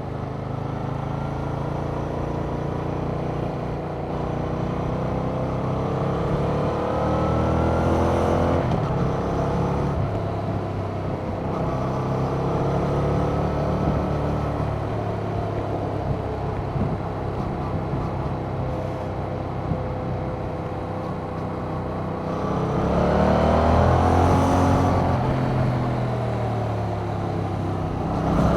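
2021 Yamaha MT-07's 689 cc parallel-twin engine through its stock exhaust, accelerating and easing off while riding. The pitch climbs for the first several seconds and drops back, rises again and holds fairly steady through the middle, climbs hardest a little after two-thirds of the way and falls away, then rises once more at the very end.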